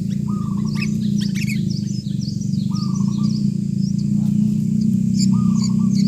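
Sooty-headed bulbul nestlings giving high, thin begging chirps that grow busier near the end as a parent arrives at the nest. A short lower bird call comes three times, over a steady low hum.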